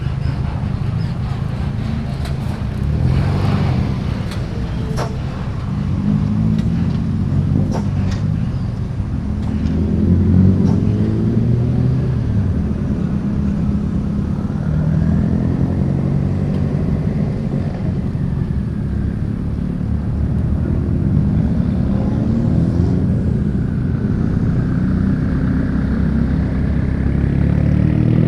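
Modified cars pulling away and driving past one after another, their engines rising and falling in pitch as each one accelerates by, with a few sharp pops or clicks a few seconds in.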